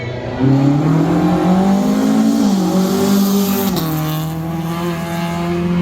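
Rally car engine accelerating hard, its pitch climbing and then dropping at gear changes about two and a half and nearly four seconds in, then holding steady.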